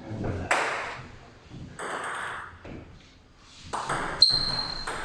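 Table tennis ball clicking off bats and table during a rally. About four seconds in there is a sharp knock, followed by a short high ringing tone.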